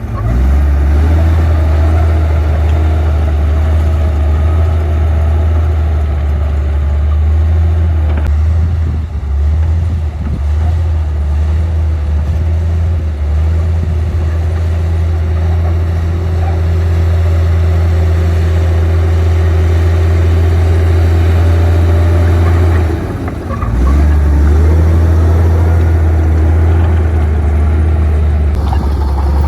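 Komatsu D58P bulldozer's diesel engine running steadily at work, with a deep low hum; about three-quarters of the way through it drops off briefly and then picks up again.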